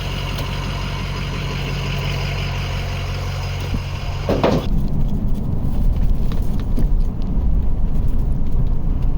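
Truck engine running while driving, a steady hum. About four seconds in it changes abruptly to a louder, uneven low rumble with small knocks.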